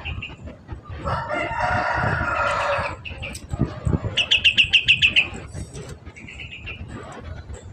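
A rooster crows about a second in, one long call of about two seconds. Then come a quick run of about nine sharp high chirps and a few softer calls, typical of a yellow-vented bulbul (trucukan).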